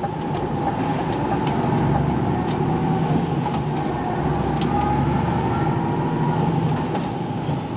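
HGV lorry engine and road noise heard from inside the cab while driving, a steady drone.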